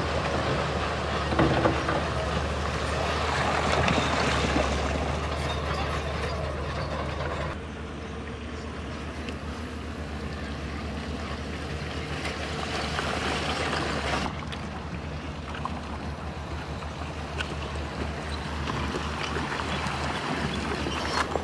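Heavy diesel earthmoving machinery running under load, a bulldozer and dump trucks working stone, with a steady low engine drone and a constant rattle and clatter over it. The sound changes abruptly twice, at about a third and two thirds of the way through.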